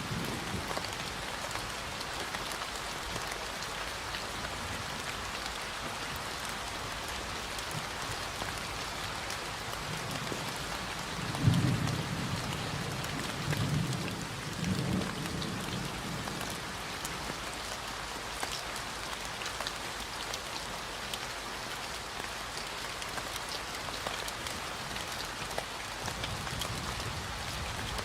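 Steady, even rain falling in a forest. Near the middle, distant thunder rumbles low a few times in a row.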